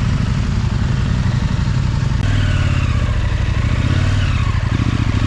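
Motorcycle engine running steadily at low revs, its pitch changing about two seconds in.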